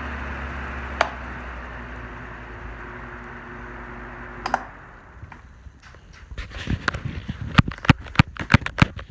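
Electric oscillating fan running with a steady whir and motor hum that slowly grows quieter. A click about a second in, and another click about four and a half seconds in, after which the fan sound stops. A run of sharp clicks and knocks follows near the end.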